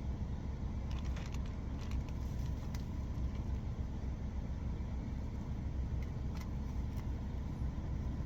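Steady low engine rumble of a parked truck idling, heard from inside the cab, with a few faint light clicks from handling the ingredients.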